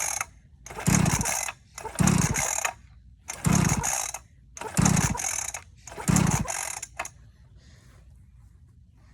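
Dirt bike engine cranked over six times in a row in quick, even strokes, each turning over without firing; it does not start because the bike is out of gas. The cranking stops about seven seconds in.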